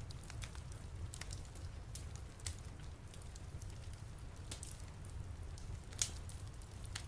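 Fireplace fire crackling, with irregular sharp pops over a steady low rumble; the loudest pop comes about six seconds in.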